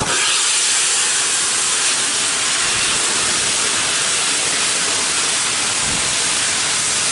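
Steam escaping from Peppercorn A1 steam locomotive 60163 Tornado in a loud, steady hiss that starts and stops abruptly.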